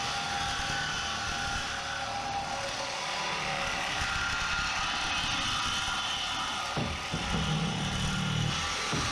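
Power tool cutting through steel: a steady, fairly loud whine and hiss with no break, and a low hum joining in for a moment near the end.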